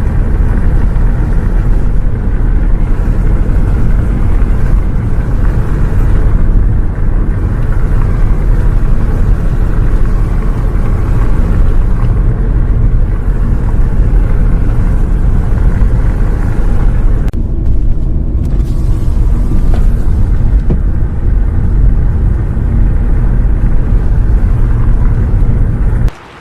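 Bus on the move heard from inside: a loud, steady low rumble of engine and road noise that cuts off suddenly just before the end.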